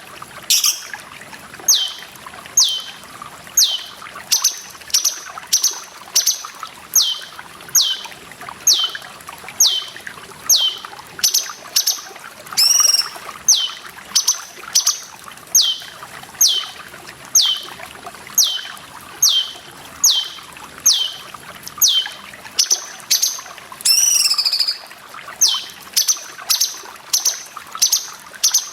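Cucak cungkok calling in a long, even series of short, high notes that each slide downward, about one and a half a second, broken twice by a longer warbling phrase. A steady trickle of running water plays underneath.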